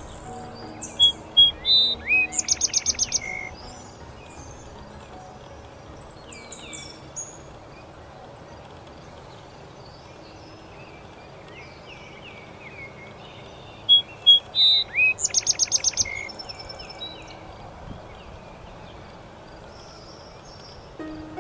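A songbird singing: twice, about 13 seconds apart, a phrase of a few sharp notes running into a quick trill of about eight notes, with fainter chirps from other birds in between over a steady outdoor hiss.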